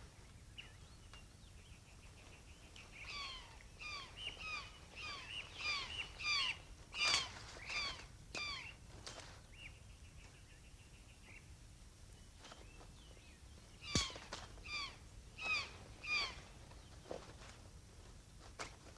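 A bird calling over and over, each call a short downward-sliding note, about two a second, in two bouts with a pause of a few seconds between them. A faint buzzing trill can be heard in the gaps.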